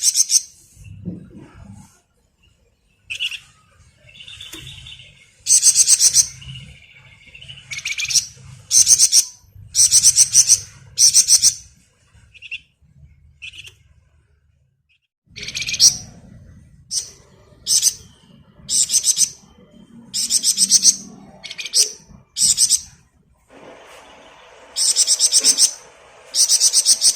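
Flamboyan songbird singing in short, very high, rapid trilled bursts, the 'ngebren' style. The bursts are repeated many times in quick runs with short pauses between them.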